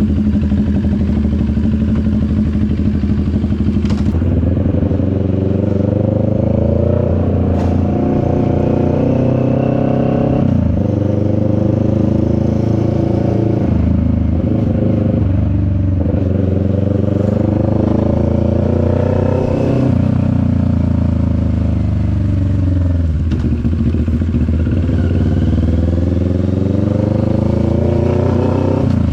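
CFMoto 400NK motorcycle engine under way, its pitch climbing through the revs and dropping back again several times as the rider accelerates, shifts and eases off. There are a couple of short clicks early on.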